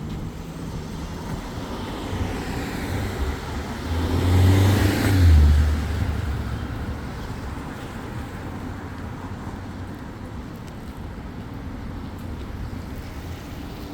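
Road traffic noise, with one motor vehicle passing close by: it swells to a peak about five seconds in and fades away again over the steady road noise.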